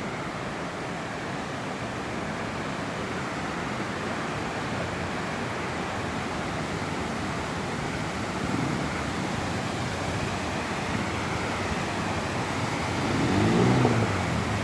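Steady rushing of falling water from a waterfall. A brief pitched sound comes about two-thirds of the way through, and a louder one just before the end.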